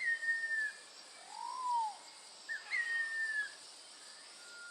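Wild birds calling in rainforest: two short, slightly falling whistles with a lower, arched whistled note between them, over a faint steady high insect buzz.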